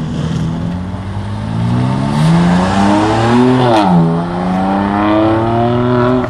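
A BMW sedan's engine accelerating hard as it pulls away: the note climbs for a couple of seconds, drops sharply at an upshift just under four seconds in, then climbs again in the next gear.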